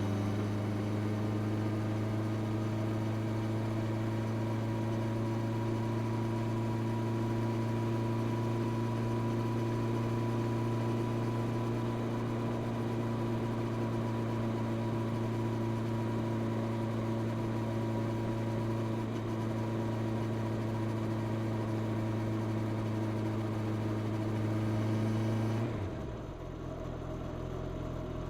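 Honda CB650R inline-four engine running through its stock exhaust under way, holding a steady pitch at a constant cruising speed. Near the end the note drops suddenly to a lower, quieter one.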